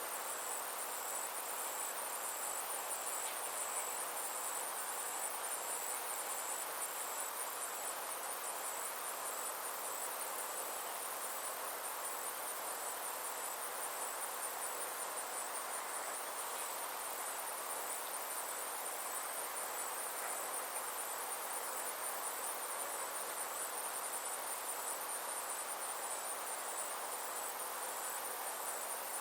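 Steady chorus of summer insects: a high, rapidly pulsing trill that never lets up, over a soft even hiss.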